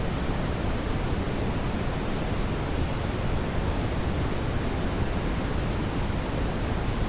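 Steady brown noise: an even, low-weighted rushing hiss with no changes or events.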